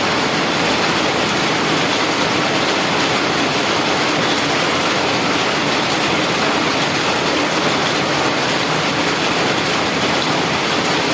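Heavy rain pouring down, a steady even hiss of rainfall with no let-up.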